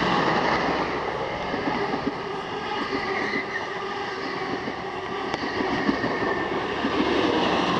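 XPT diesel passenger train passing close by: a steady rush of wheels and carriages on the rails, with a rapid, continuous clatter.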